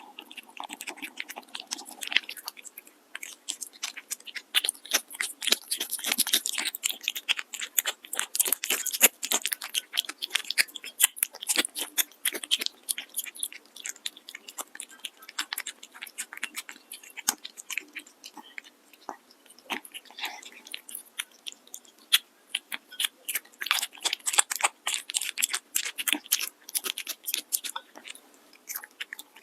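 A cat chewing and crunching food: a long, dense run of crisp bites and crunches, busier in two spells with short pauses between.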